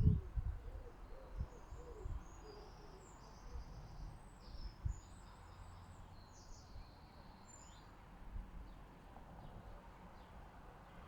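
A pigeon cooing in low, hooting notes during the first couple of seconds. Small garden birds chirp in short, high-pitched calls over the next several seconds, with a few low thumps in between.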